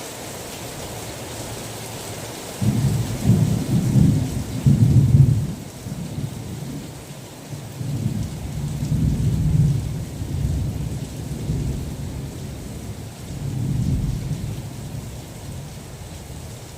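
A thunderclap about three seconds in, rolling on in low rumbles that swell again twice and fade, over steady rain.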